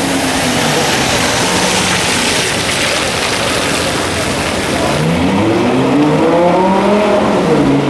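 A Lamborghini Gallardo's engine fades as it drives off down a wet street, with tyre hiss on the wet road. About five seconds in, a Porsche Cayenne's engine revs up close by, its pitch climbing, then drops back near the end.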